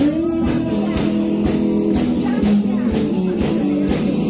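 Live band playing a rock-and-roll song with a steady beat of about two strikes a second.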